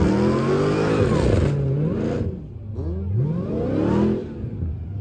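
Dodge Hellcat Redeye's supercharged 6.2-litre V8 revving hard for a burnout, the pitch sweeping up and down over and over. There is one long run of revs, then a second short one about three seconds in.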